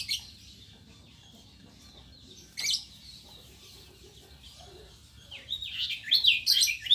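Caged birds chirping: a sharp shrill call at the start and another about two and a half seconds in, then a quick run of short falling chirps in the last second and a half.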